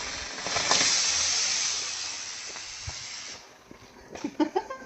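Firework fountain spraying sparks with a steady hiss that grows strongest about a second in, then fades and cuts off at about three and a half seconds.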